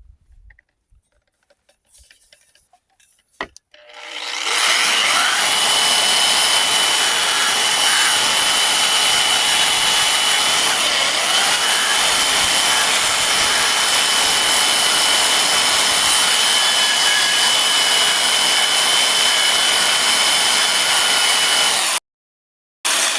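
Power tool spinning a paint-stripping wheel against the truck's body panel: a steady, even-pitched whine over rough grinding noise. It starts about four seconds in and cuts off abruptly near the end.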